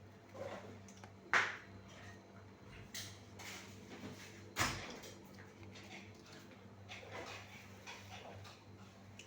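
A few sharp knocks and clatters, the loudest about a second and a half in and another near five seconds, over a steady low hum.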